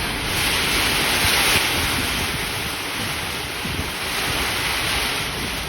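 Heavy rain falling in a steady hiss, with wind buffeting the microphone in an uneven low rumble.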